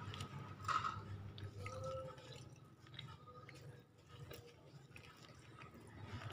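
Close-up chewing of a mouthful of rice, with small wet mouth clicks, louder in the first two seconds and quieter after.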